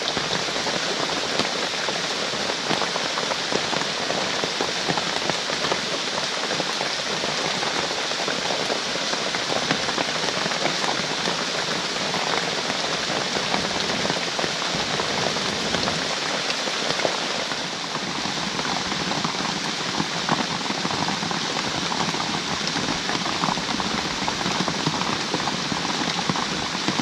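Heavy rain falling steadily, a dense, unbroken hiss of drops.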